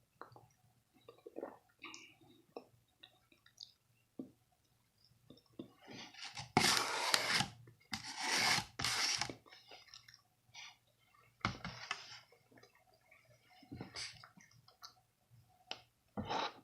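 Close-up eating sounds: soft chewing and small mouth clicks, broken about six seconds in by three loud rubbing, rustling bursts about a second each, then more scattered clicks.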